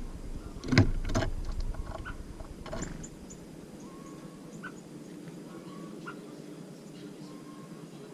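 A few loud knocks and thumps on a bird feeder in the first three seconds, with short, faint high chirps from tits scattered throughout.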